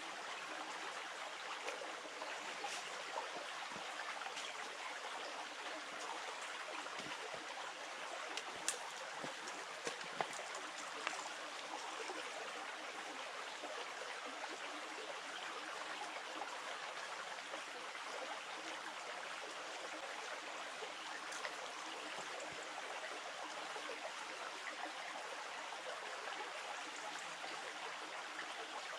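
Flowing river water running steadily, with a few light ticks about nine to eleven seconds in.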